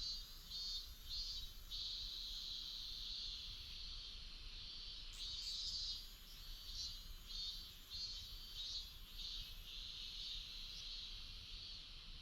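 Insects calling in a high-pitched chirring chorus that swells into short pulses again and again, over a faint low rumble.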